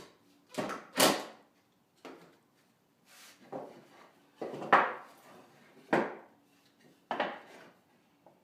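Plywood birdhouse parts being handled: about seven irregular wooden knocks and scrapes as the pieces are moved and set against each other.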